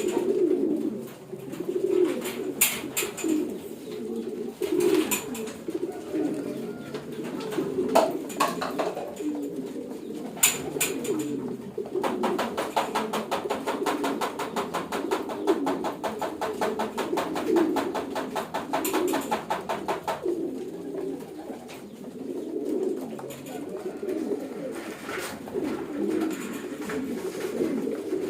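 A flock of homing pigeons cooing steadily in their loft, broken by a few sharp clicks in the first half. From a third of the way in until about two-thirds through, a fast, even rattle runs under the cooing, then stops.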